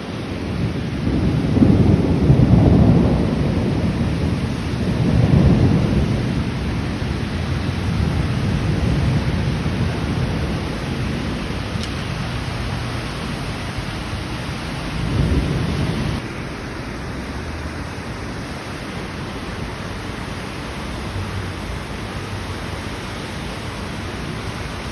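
Heavy rain pouring steadily, with low rolls of thunder rumbling over it: the loudest near the start and again about halfway through the downpour's noise, around fifteen seconds in.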